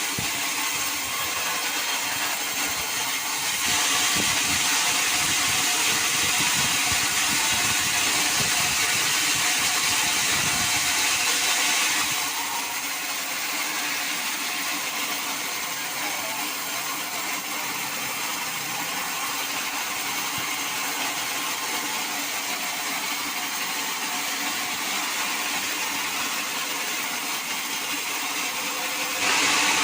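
Sawmill machinery running steadily, a saw cutting through timber with a hiss and hum. It is louder from about four to twelve seconds in.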